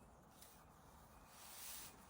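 Near silence: faint background ambience, with a soft rush of high-pitched noise that swells and fades near the end.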